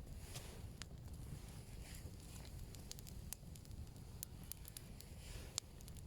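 Wood campfire of freshly added branches burning, crackling with scattered sharp pops at irregular intervals over a low steady rumble.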